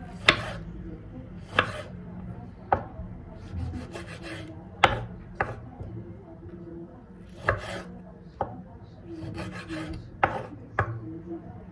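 Hands-on kitchen work: about nine sharp, irregularly spaced knocks with rubbing and scraping between them, over a steady low hum.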